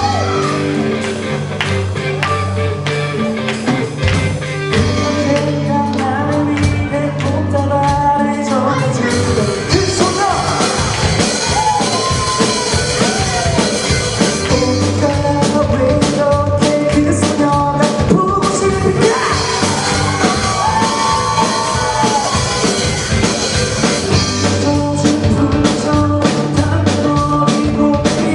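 Amateur band playing a rock-style song live, with a singer over drums and a stepping bass line.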